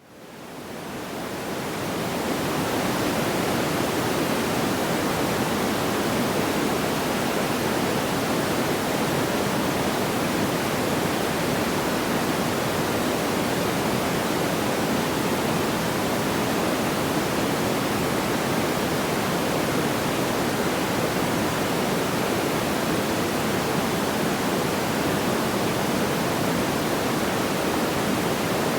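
Steady, even rushing noise like pink noise, with no distinct crackles or pops. It fades in from silence over the first two to three seconds, then holds level.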